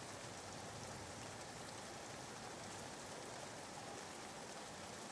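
Soft, steady rain ambience added as white noise under a sleep recording, an even patter of rain that stays level throughout.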